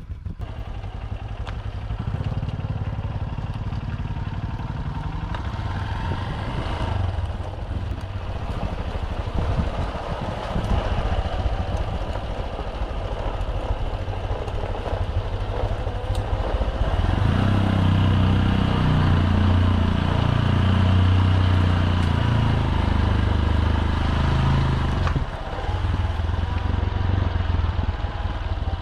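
Motorbike engine running while riding, with road and wind noise. The engine grows louder from a little past halfway, then dips briefly before settling back.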